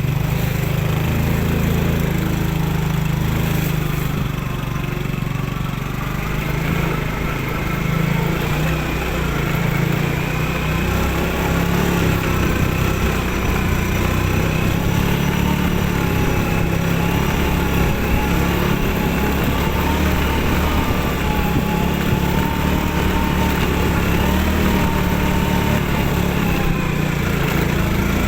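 Yamaha Finn underbone motorcycle's 115 cc single-cylinder four-stroke engine running steadily under way, its pitch drifting gently up and down.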